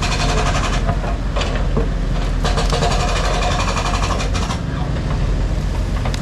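Heavy diesel construction machinery running with a steady low rumble. It has two stretches of fast, even rattling, one at the start and another from about two and a half to four and a half seconds in.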